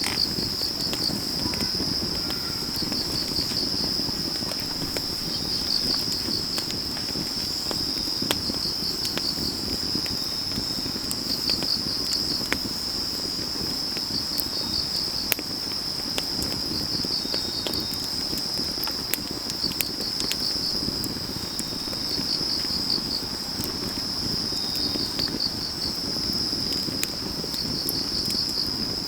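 Autumn night field insects: one keeps up a continuous high trill while another chirps in short pulsed runs every two to three seconds. Underneath, a wood fire burns with a low rush and scattered small crackling pops.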